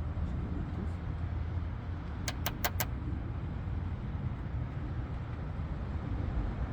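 Four quick sharp clicks about two and a half seconds in, from small retaining clips being handled and pushed into place, over a steady low rumble.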